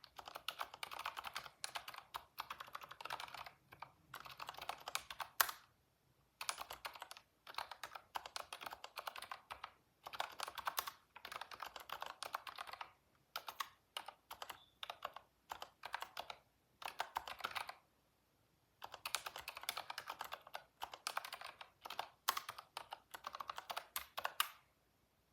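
Computer keyboard typing in quick bursts of key clicks, with short pauses between runs and one sharper key strike about five seconds in.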